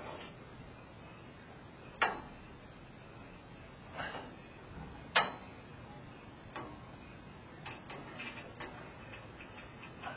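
Scaffolding parts being fitted together: a sharp clank about two seconds in, another about five seconds in, and a softer knock between them, followed by lighter knocks and rattles.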